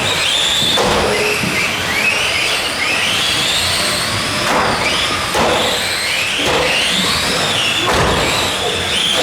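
Several Tamiya Euro Truck RC race trucks, each with an electric motor and gear drive, whining together as they run laps. The whines overlap and keep rising and falling in pitch as the trucks accelerate and slow for corners, with a few knocks among them.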